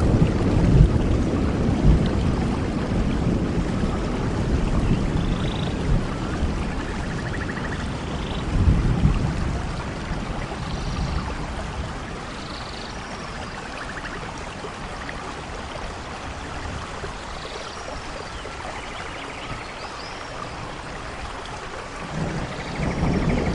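Steady rain with low rolls of thunder: one fading away at the start, another swelling about nine seconds in, and a new roll building near the end. Faint brief high chirps come now and then over the rain.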